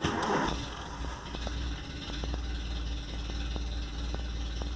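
Volkswagen Golf Mk3 single-point-injection petrol engine, with a newly fitted idle air control actuator, running just after starting. A sudden surge in the first half second settles into a steady low idle with faint, irregular light ticks.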